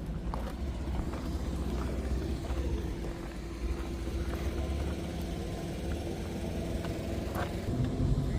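An engine running steadily at idle, a low even hum with a few faint clicks over it.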